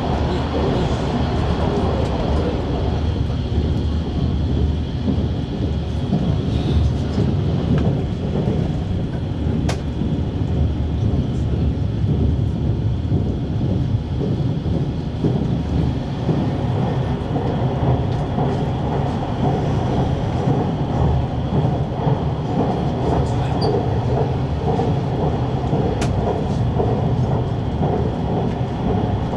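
JR Shikoku 8000 series electric train running at speed, heard from inside the passenger car: a steady, even rumble of wheels on rail with a couple of faint clicks.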